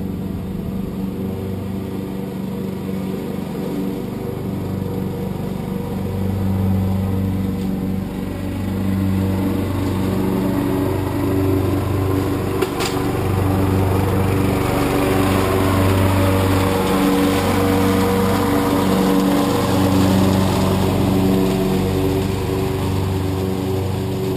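Husqvarna lawn tractor running with its mower deck engaged, picking up leaves: a steady engine note that rises and falls every second or two, with a rushing noise that swells from about a third of the way in. A single sharp click about halfway through.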